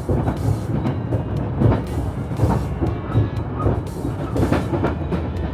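JR limited express Yakumo 273-series train running along the track, heard from inside the carriage: a steady low rumble with irregular clacks and thumps of the wheels over the rail joints.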